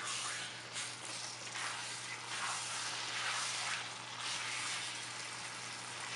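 Chicken pieces sizzling in oil and masala in a nonstick wok on medium-high heat, stirred and turned with a silicone spatula, the hiss swelling and fading with each stir. The chicken is being browned until its water dries off.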